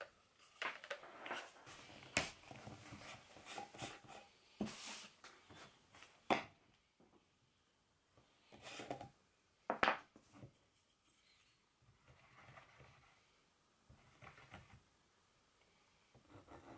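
Faint handling noises: scattered sharp clicks and taps with soft scraping and rubbing between them, as small objects are picked up, set down and worked by hand.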